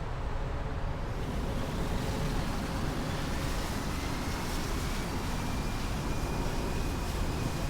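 Jet airliner engines: a steady rushing rumble that grows brighter after about a second, with a faint whine slowly rising in pitch in the second half.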